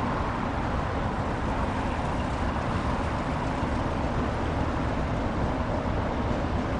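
A train running: a steady rumble and hiss with no clear beat.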